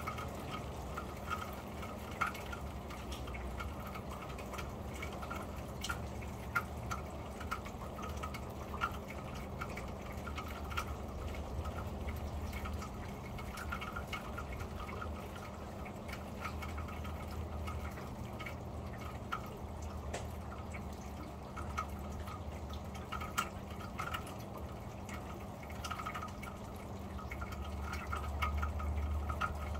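Rain on a corrugated metal roof, heard from underneath: a steady patter with many single drops ticking and dripping at uneven intervals. A low rumble runs underneath and grows louder near the end.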